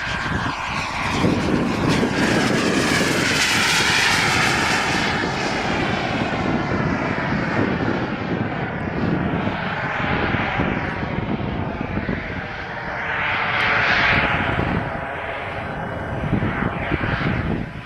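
Jet turbine of an RC Boomerang Elan model jet running in flight, a steady rushing noise that swells twice as the jet passes close, about four seconds in and again near fourteen seconds.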